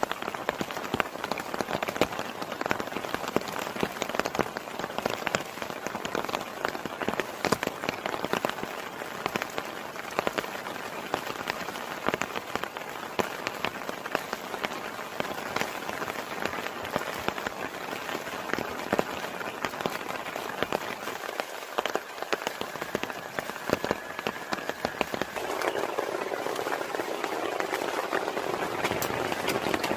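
Heavy rain falling steadily, with many individual drops striking sharply close by. In the last few seconds the rain noise grows fuller and a little louder.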